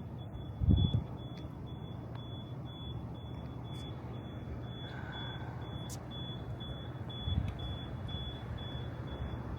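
Short, high electronic beeps repeating steadily about twice a second over a low, steady machine hum. There is a dull thump just under a second in and another softer one after about seven seconds.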